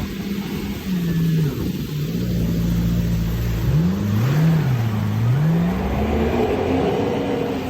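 Yamaha jet ski engine running with the throttle varied: its pitch drops in steps, dips low around the middle, then climbs back near the end, over a steady rumble and rush.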